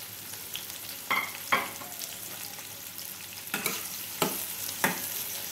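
Sliced onions and chopped garlic sizzling in hot ghee in a steel kadhai, with a steel spoon scraping and knocking against the pan about five times as they are stirred.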